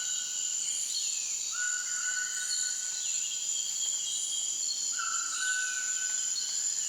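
Tropical forest ambience: a steady high insect drone with short rising chirps every second or two. Over it, a repeated call rises briefly and then holds one pitch for about a second, coming back every two to three seconds.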